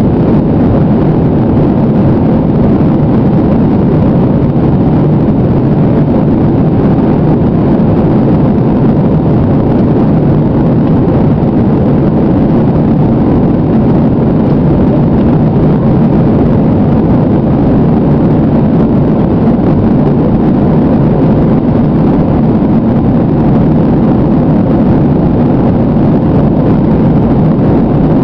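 Steady, loud jet engine and airflow noise heard inside an airliner cabin during takeoff.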